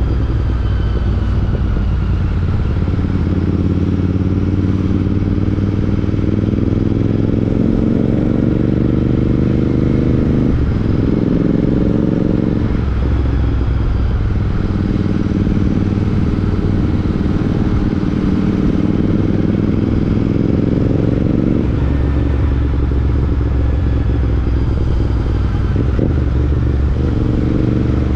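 Royal Enfield Interceptor 650's parallel-twin engine through a Chris Michael aftermarket exhaust, under way: the engine note climbs in long pulls and drops sharply several times, about ten, thirteen, twenty-two and twenty-seven seconds in.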